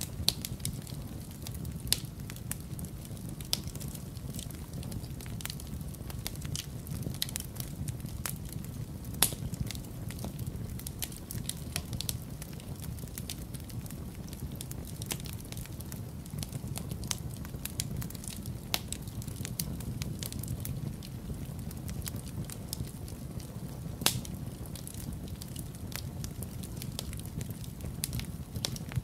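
Wood fire crackling in a fireplace: frequent sharp pops and snaps at irregular moments over a steady low rumble.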